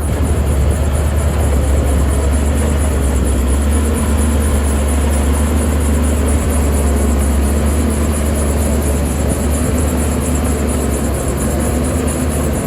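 Heavy earth-moving machine's diesel engine running steadily, its sound mostly a deep, even low rumble.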